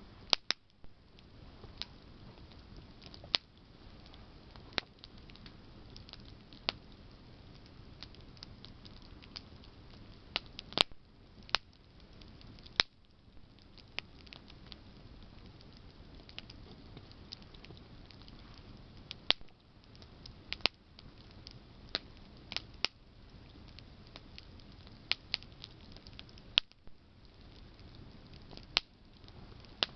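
Campfire of burning branches crackling: irregular sharp pops and snaps, some loud, over a faint steady rustle of the flames.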